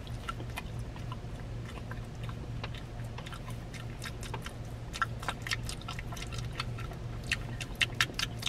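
A person chewing a bite of a small fried chicken wing with leathery, not crispy, skin: soft wet mouth clicks and smacks that grow more frequent about halfway through, with no loud crunch.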